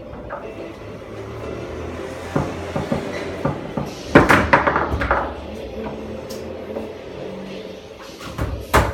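Foosball table in play: the hard ball clacking against the players and the table walls, with a quick run of loud clacks about four seconds in and another sharp knock near the end.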